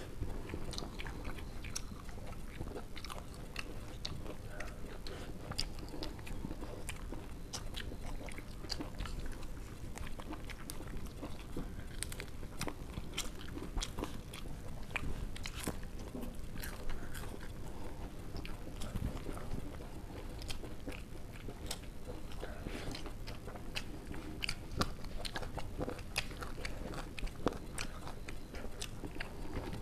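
Close-up eating sounds: chewing, with many small wet clicks and smacks as rice and egg curry are eaten by hand. Steady low background noise runs underneath.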